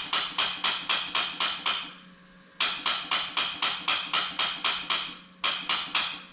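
Quad's starter solenoid chattering in rapid, even clicks, about five a second, in three runs with short breaks, as the key is held: the sign of a battery too weak to crank the engine, which the owner takes for a dead battery.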